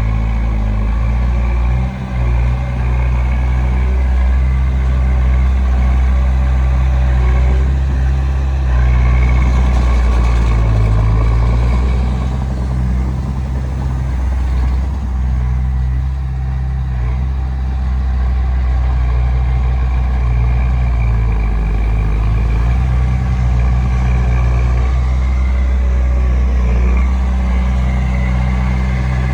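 Diesel engine of a Komatsu D20P bulldozer running steadily as it pushes sand, a continuous low engine hum that shifts a little in pitch as it works.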